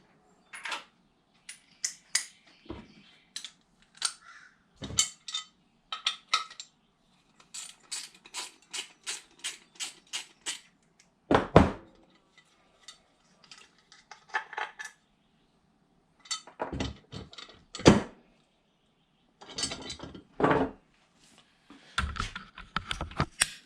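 Small metal parts clinking and clicking as a truck wheel center cap is taken apart by hand. There is a quick run of even ticks partway through and a few louder knocks.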